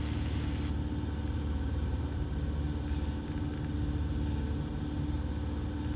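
Cessna 172's engine and propeller droning steadily in flight, heard in the cabin.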